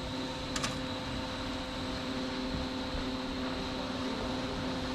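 Steady machine hum with a few constant droning tones under a wash of noise, and a brief click about half a second in.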